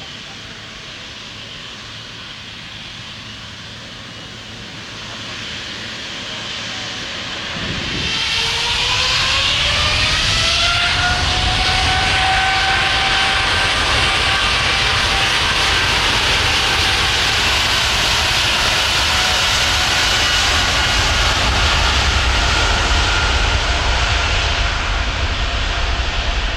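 Airbus A350 jet engines (Rolls-Royce Trent XWB) spooling up: about eight seconds in, a whine rises in pitch and then holds steady at high power over a heavy rumble.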